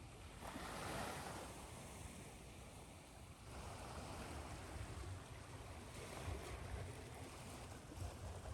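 Ocean waves washing on a shore, mixed with steady white noise. One wave swells and ebbs about a second in, and another washes in from about three and a half seconds.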